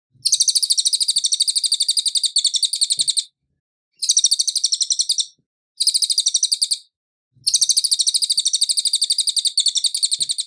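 A cililin singing: four bouts of a fast, high, even trill of repeated notes, about ten a second. The bouts are separated by short pauses, and the last and longest runs on to the end.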